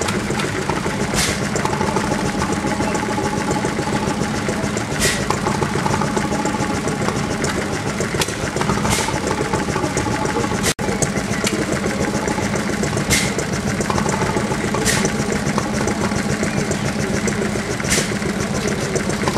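Vintage stationary engines running steadily with a rapid chuffing beat, and a sharp crack every two to four seconds.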